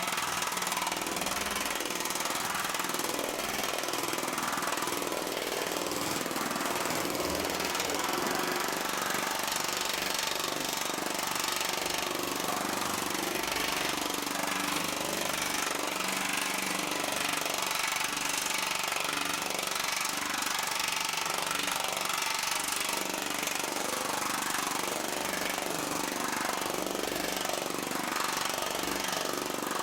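Pneumatic air power hammer with large reverse dies rapidly pounding a sheet of half-hard .050 1100 aluminum, stretching it into a reverse curve. The hammering is a continuous rapid chatter at an even level, with the air pressure set moderate so the metal stretches controllably.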